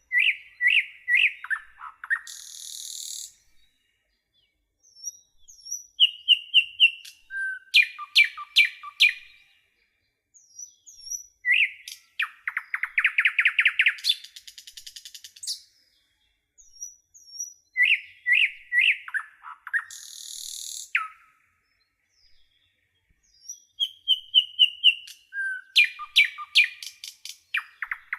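A songbird singing phrases of clear whistled notes, rapid trills and a harsh buzzy note. A new phrase starts about every six seconds, with short silent gaps between them, and the phrases repeat almost identically.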